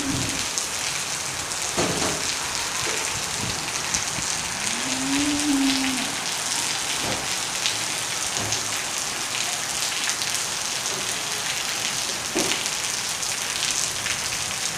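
Steady rain pouring onto a flooded paved farmyard, an even hiss with scattered drips and splashes. About five seconds in, a cow moos once, a low call that rises and falls.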